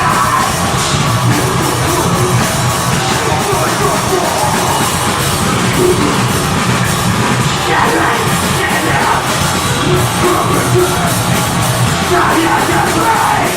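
Deathgrind band playing live: dense distorted guitars, bass and fast drums with harsh shouted vocals, loud and unbroken.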